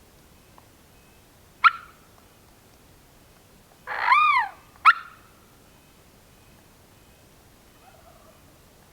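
Wild turkey gobbler gobbling about four seconds in, set between two sharp short calls, one a couple of seconds before it and one right after.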